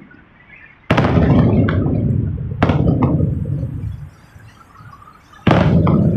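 Three firework shells bursting overhead, about a second in, two and a half seconds in and near the end, each a sudden boom that rumbles away over a second or more.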